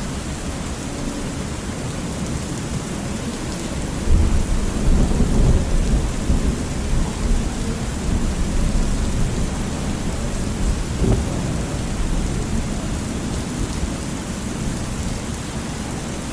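Thunderstorm ambience: steady rain falling, with a roll of thunder that swells about four seconds in and rumbles away slowly over the following seconds.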